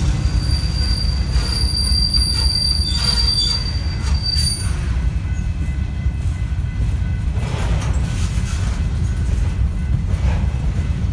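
Freight train of covered hopper cars rolling past close by: a heavy low rumble of steel wheels on rail, with a high-pitched wheel squeal for the first four seconds or so that then stops.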